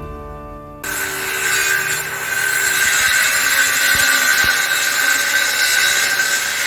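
A power tool starts a little under a second in and runs steadily with a high whine and a rasping noise, cutting wood.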